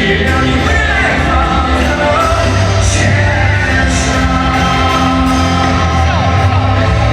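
Live pop-rock concert music: a band playing with singing, and the crowd shouting and whooping along in a stadium.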